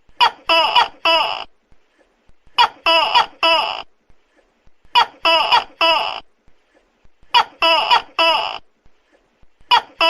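Tokay gecko calling loudly, in groups of three quick calls, one group about every two and a half seconds, repeating evenly.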